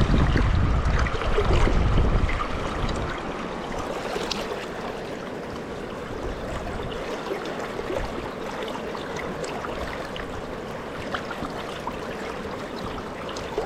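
River water rushing steadily over a rocky bed, with a low rumble in the first couple of seconds.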